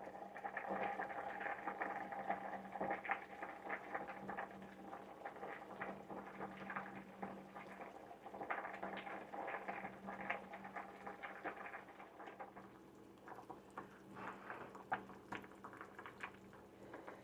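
Pot of sinigang soup bubbling and popping on the stove, a steady crackle of small pops that thins out about two-thirds of the way through and picks up again near the end, over a faint steady hum.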